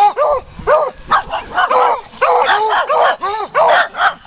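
Dogs barking repeatedly, about three barks a second, some overlapping.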